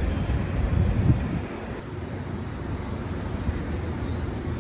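Steady low rumble of city street ambience with passing traffic, slightly louder in the first second or so.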